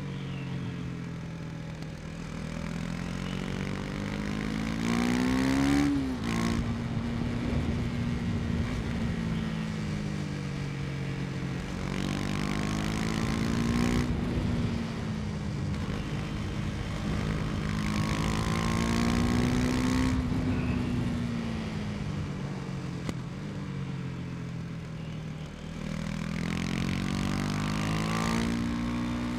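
KTM Duke 250's single-cylinder engine pulling the bike along on the road. Its pitch climbs and eases several times as the throttle opens and closes, with a quick climb and a sharp drop about six seconds in, over a steady rush of wind.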